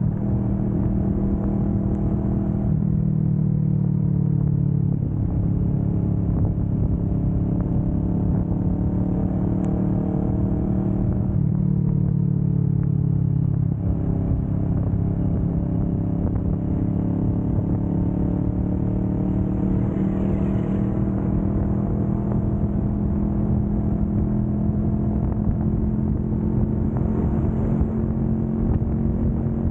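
Kawasaki Vulcan S 650's parallel-twin engine running at highway speed, its pitch climbing slowly and dropping back a few times in the first half, then rising gradually and holding steady, over a constant low rumble.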